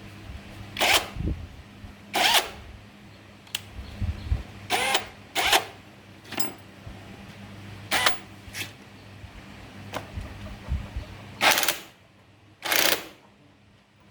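A series of irregular short clacks and scrapes, about ten in all, like parts and hand tools being handled, over a low steady hum.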